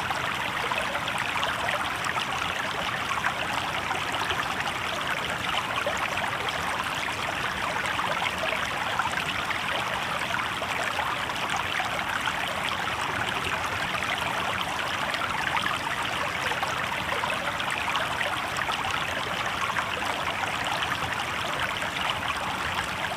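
Shallow river water babbling steadily over stones, a constant even rush.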